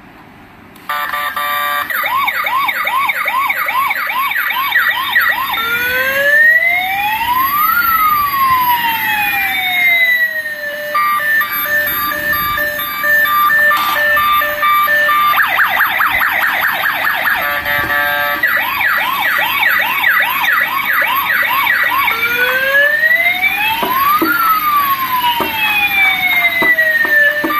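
A toy RC police car's electronic siren cycles through its patterns: a fast repeating yelp, slow wails rising and falling in pitch, and steady beeping tones.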